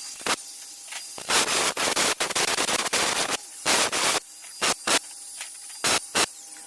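Power-tool work on the steel door panel: repeated short bursts of harsh hissing noise, stopping and starting every fraction of a second.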